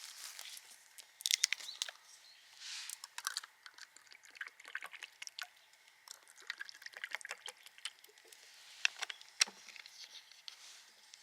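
Irregular rustling with many scattered sharp clicks and cracks, the loudest about a second and a half in and again near nine seconds.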